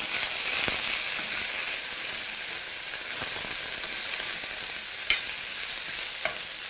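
Salmon pieces and mushrooms frying in hot oil in two pans, a steady high sizzle. A couple of light clicks come near the end as the mushrooms are stirred.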